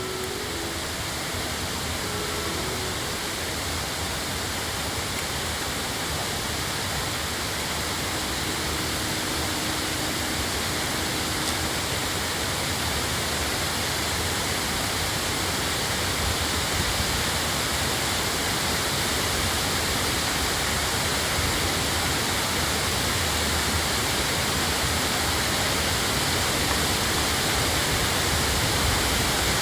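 The Kurotaki waterfall: water pouring and rushing steadily over the falls, a constant, unbroken roar of falling water.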